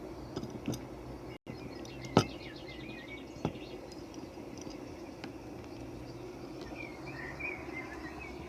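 Forest ambience: small birds chirping over a steady background noise, with a few sharp taps, the loudest about two seconds in.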